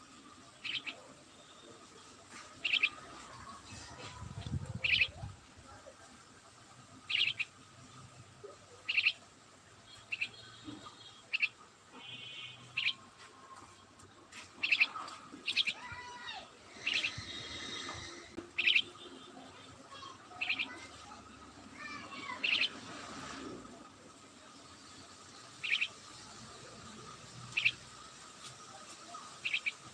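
Small birds chirping: a short high chirp repeated every second or two, with a few quicker trilled calls midway.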